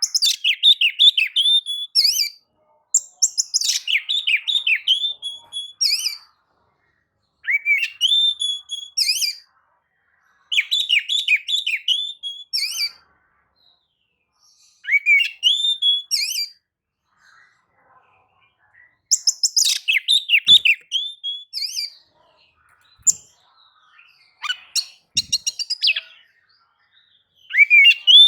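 Oriental magpie-robin (kacer) singing: loud bursts of quick, sweeping whistled notes and trills, each phrase a second or two long, repeated after short pauses.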